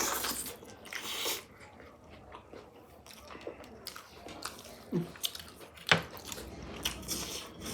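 A person eating close to the microphone: chewing and biting mouth sounds with scattered small clicks, the sharpest one about six seconds in.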